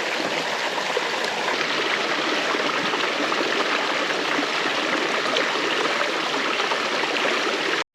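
Small waterfall: a steady, fairly loud rush of falling water, cut off suddenly near the end.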